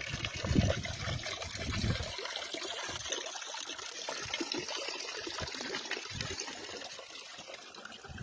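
Running water trickling steadily, with a few low rumbles in the first two seconds.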